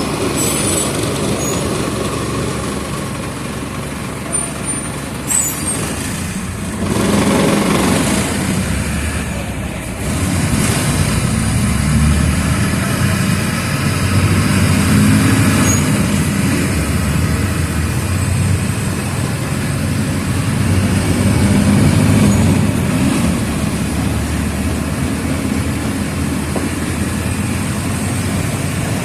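Mercedes-Benz OF 1722M city bus's diesel engine running under way, its note rising and falling with load, with a brief sharp hiss about five seconds in.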